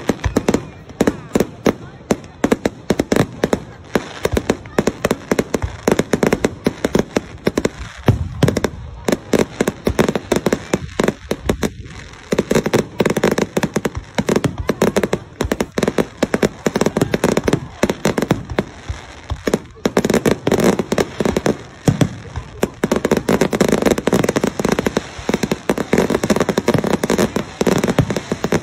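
Fireworks display: a dense, continuous barrage of sharp bangs and crackling from aerial shells and firecrackers, thinning briefly about a third of the way in before building up again.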